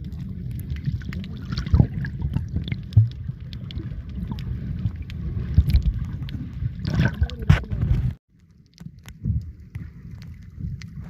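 Wind buffeting the microphone as a dense low rumble, with sea water sloshing and gurgling. It cuts off abruptly about eight seconds in, then resumes quieter.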